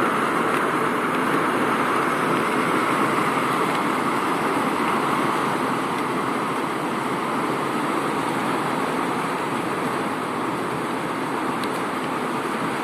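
Heavy rain pouring steadily, an even, unbroken hiss of a downpour.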